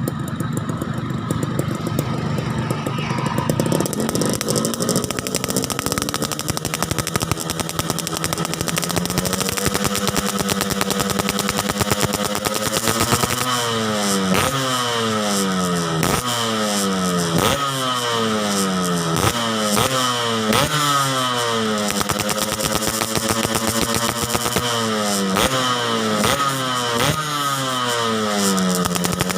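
Yamaha RX-King's two-stroke single-cylinder engine breathing through an aftermarket Borang exhaust. It is revved up slowly and held, then from about halfway it is blipped again and again, roughly once a second, the revs falling away after each blip.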